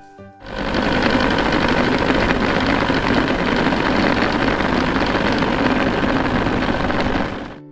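An electric kitchen appliance motor running loud and steady. It comes up to speed over about half a second, runs evenly for about six and a half seconds, then winds down near the end.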